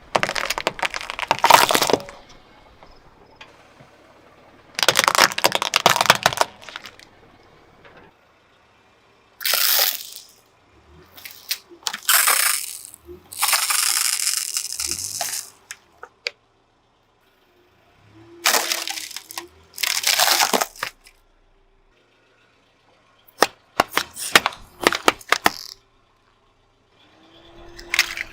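A car tire crushing brittle objects: about eight separate crunching, crackling crushes, each a second or two long, with sharp snapping clicks near the end.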